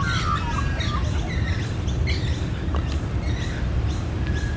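Australian magpie carolling, its territorial call: warbling, wavering notes that are strongest in the first half second, then fainter calls, over a steady low rumble.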